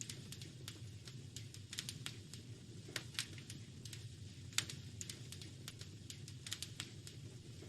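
Fireplace fire crackling: irregular snaps and pops over a low steady rumble, with the sharpest pops about three seconds in and a little after four and a half seconds.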